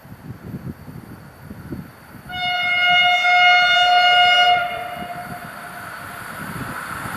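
Horn of an EKr1 Tarpan intercity electric train, one steady blast of about two seconds starting a couple of seconds in, then trailing off, over a low rumble of the train.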